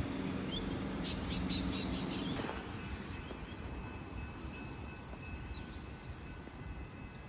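Electric suburban train at a station: a steady low hum with a quick run of clicks about a second in. About two and a half seconds in it drops abruptly to a quieter steady hum with a faint high whine. A bird chirps early on.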